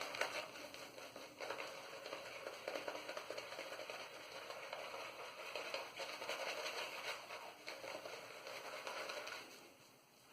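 Omega 10075 boar-bristle shaving brush working wet Proraso lather on the face: a continuous, fine-grained wet brushing that stops about nine and a half seconds in.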